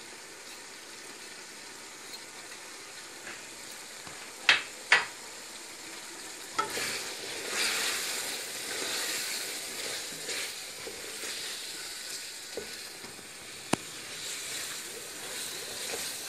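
Mutton and masala sizzling in hot oil in an aluminium pot while a wooden spatula stirs in freshly added ground spices to fry them. Two sharp knocks come about four and a half seconds in, and single clicks follow later.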